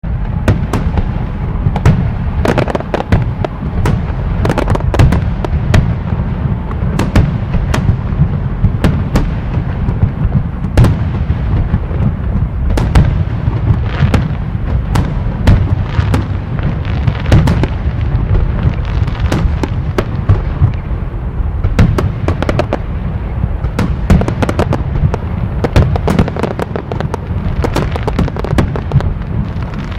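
Fireworks going off: many sharp cracks and pops in quick, irregular succession over a steady low rumble.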